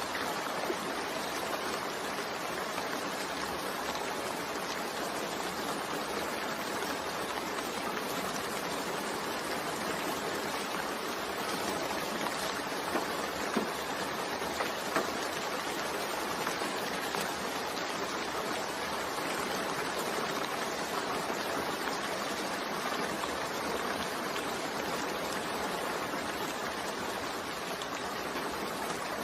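Steady rain falling, an even hiss, with a few sharper drop sounds around the middle.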